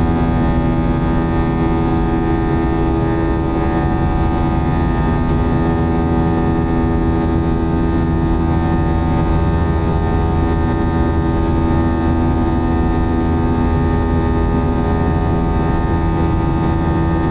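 Airbus A321-231's IAE V2500 turbofans at climb thrust, heard inside the cabin as a steady drone with a buzzsaw of many fixed tones over a low rumble.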